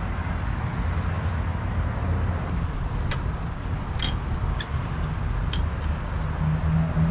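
Several sharp metallic clinks of hand tools being worked on the strut and suspension parts, about five spread through the middle, over a steady low rumble.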